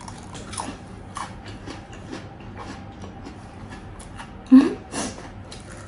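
Close-miked eating sounds: soft chewing and small wet mouth clicks scattered throughout, with one brief louder sound about four and a half seconds in.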